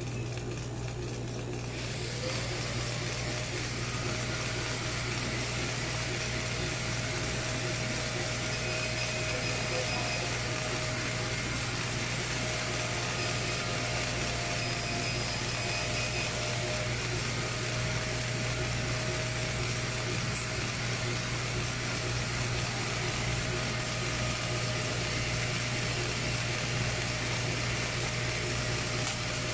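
CNC router running steadily: a constant low hum with thin whining tones that start, stop and shift as the machine moves, and a hiss that comes in about two seconds in.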